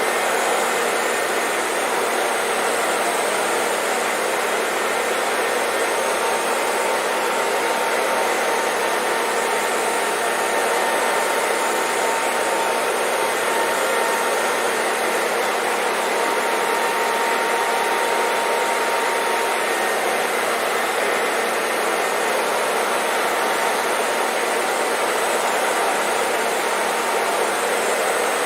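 Hair dryer blowing steadily: an even, unchanging rush of air, with a faint thin whine in the middle stretch.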